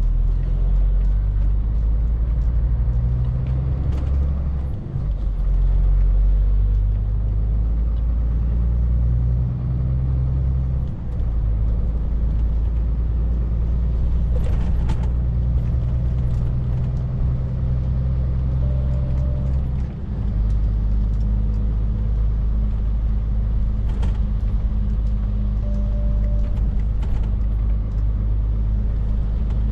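Scania R450 lorry's diesel engine running while driving, a steady low drone that steps in pitch with brief dips in level about 5, 11 and 20 seconds in, as with gear changes. A few faint clicks are heard midway and near the end.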